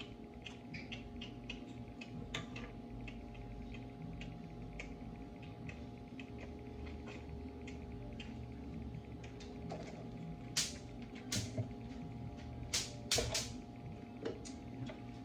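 Scattered light taps and clicks of a spoon, cookies and a dish while a dessert is layered by hand, with a few sharper clicks from about ten to thirteen seconds in, over a steady low hum.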